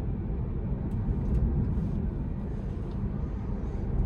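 Steady low road and tyre noise heard inside the cabin of a moving Tesla Model 3, an electric car with no engine sound, at an even level.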